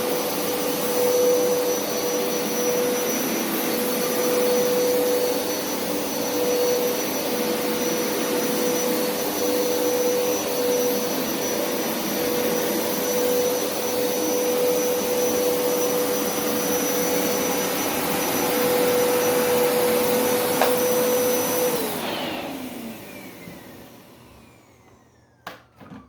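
Hoover SpinScrub50 carpet washer's motor running steadily with a high whine and a rush of air. Near the end it is switched off and winds down, its whine falling in pitch, followed by two short clicks.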